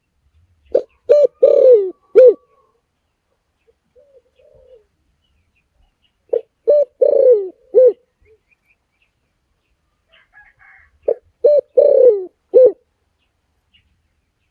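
Spotted dove cooing: three phrases about five seconds apart, each of four notes with a longer, falling third note.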